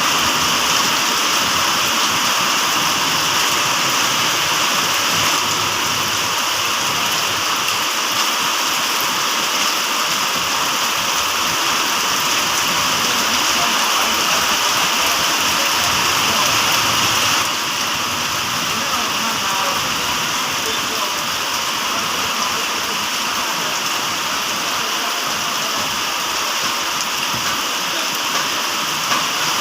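Steady rain falling, an even hiss of drops on surfaces. It drops a little in level about seventeen seconds in.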